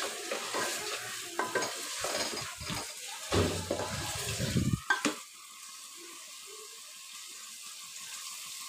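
Spatula stirring and scraping mutton in thick masala in a metal pot as it fries on the gas, with sizzling. The stirring stops about five seconds in after a sharp click, leaving a faint steady sizzle.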